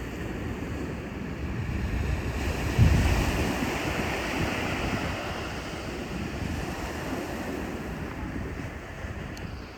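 Sea waves washing on the shore, with wind buffeting the microphone in low rumbles. The sound swells to its loudest about three seconds in, then slowly eases.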